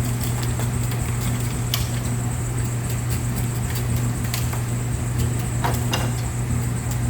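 Ice chisel pushed across a block of ice, giving a few light, scattered scrapes and clicks over a steady low machine hum.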